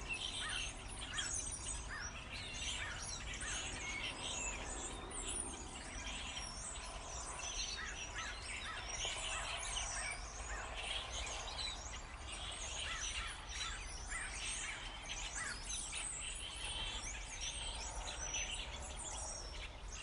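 A flock of common starlings calling together: a dense, continuous chatter of overlapping chirps, clicks and whistles.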